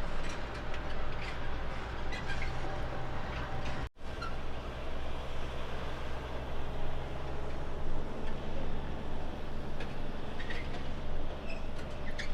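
Heavy diesel engine of a road train prime mover running steadily, a low drone with the noise of tyres and wind over it. The sound breaks off for a moment about four seconds in and picks up again.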